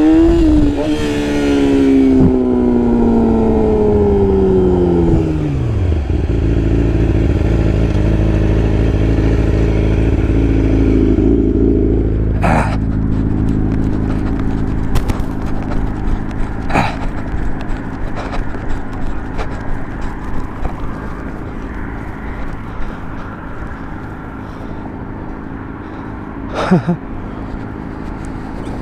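Yamaha R6 motorcycle's inline-four engine with revs falling smoothly over the first several seconds, then running steadily at low revs. A few sharp clicks or knocks sound over it in the second half.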